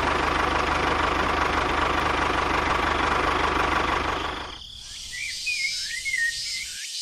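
A small engine running steadily, then cutting off abruptly about four and a half seconds in. After it stops, birds are chirping.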